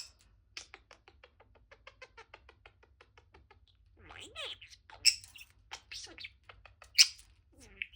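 Budgie chattering: a run of fast clicks for the first few seconds, then warbling chirps with sliding pitches, with two sharp, loud chirps.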